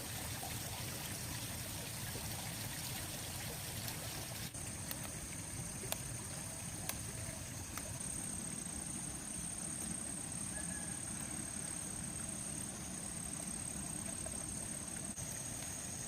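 Running stream water with a steady high insect drone, and a few faint clicks in the middle.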